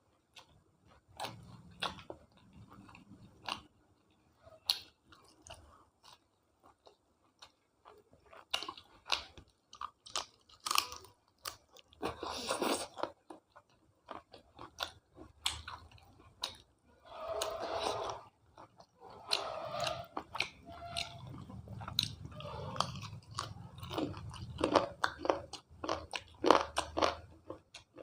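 A person chewing and biting food, with many sharp crunchy clicks and some longer wet mouth noises now and then.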